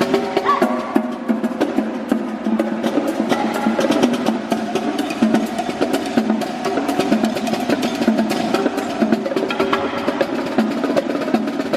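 Live percussion music: drums and sticks played in a dense run of rapid, sharp strikes.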